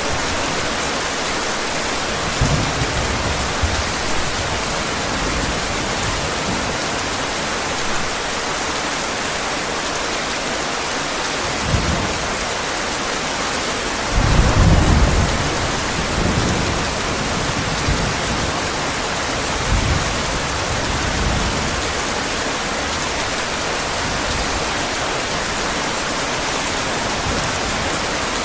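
Heavy rain hissing steadily, with thunder rumbling low several times; the loudest rumble comes about halfway through.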